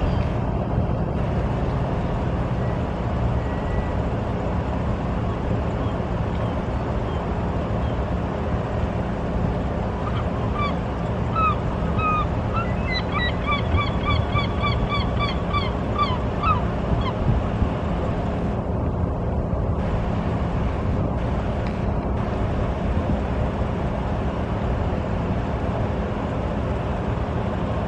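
A goose honking in a quick run of about a dozen short calls, starting about ten seconds in and lasting some seven seconds, over a steady low rumble.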